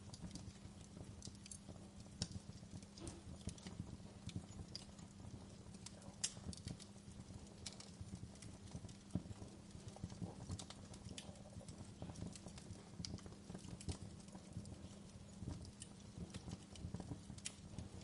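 Wood fire in a fireplace crackling, with many small irregular snaps and pops of burning logs over a steady low hum.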